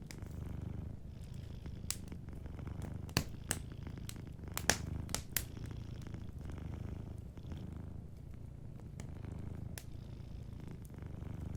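Domestic cat purring steadily, a low pulsing rumble, with wood fire crackling over it in scattered sharp pops, several coming close together about two to five seconds in.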